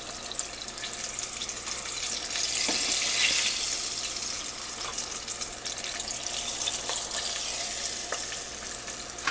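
Chicken wings deep-frying in hot oil, a steady sizzling hiss that swells a few seconds in, with a few light clicks.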